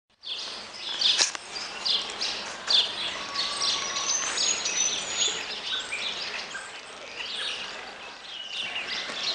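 Birds chirping and calling, many short chirps overlapping, with a sharp knock about a second in.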